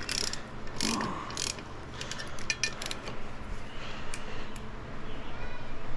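Ratchet wrench clicking in short runs as it backs off the 17 mm rear sprocket nuts.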